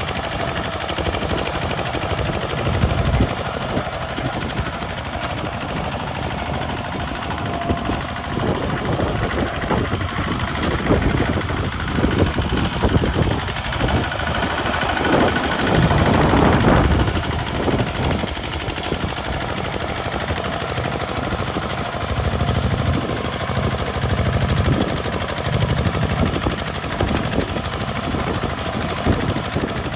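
Kubota RT single-cylinder diesel engine of a converted walking tractor chugging steadily while plowing, a fast string of exhaust beats that grows louder for a couple of seconds midway.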